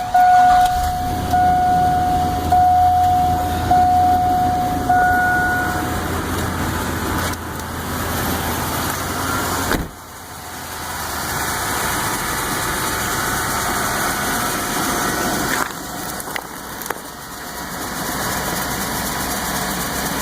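Chevy Tahoe being started in sub-zero cold: the starter cranks the engine for several seconds while a warning chime sounds five times, about a second apart. About ten seconds in the cranking stops and a steady engine sound follows, the engine struggling with the cold.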